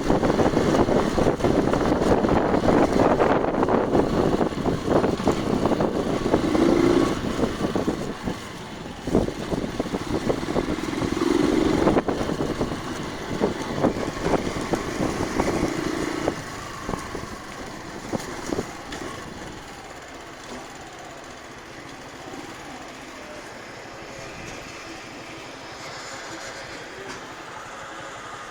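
Motorcycle running while being ridden, loud and rough with frequent jolts, then dropping to a quieter steady hum about two-thirds of the way in.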